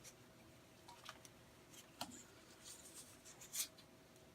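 Near silence with faint crinkling, rubbing and scattered small clicks of silicone repair tape being stretched hard and wound around a pipe, one louder click near the end.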